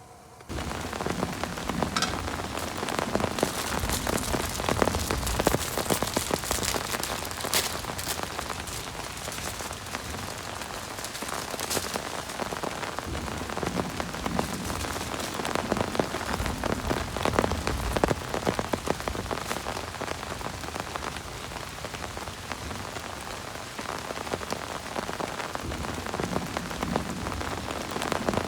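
Heavy rain falling steadily, with many separate drops tapping close to the microphone.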